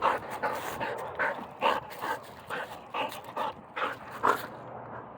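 Dog panting in a steady rhythm of about two breaths a second after fetching and tugging a frisbee.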